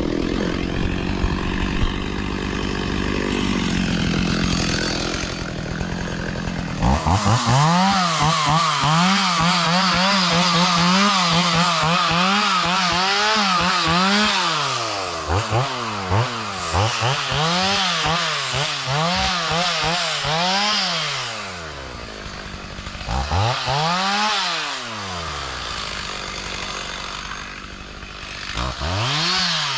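Two-stroke chainsaw running while brush is cleared. About seven seconds in it is throttled up to a high, steady pitch, then repeatedly dips and drops back toward idle before revving again, with two shorter revs near the end.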